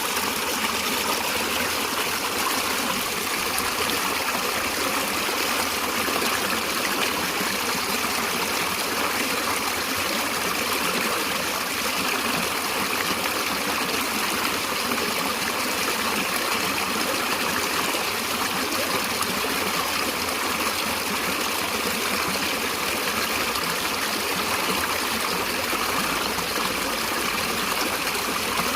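A stream running steadily over stones, a continuous even rush of flowing water.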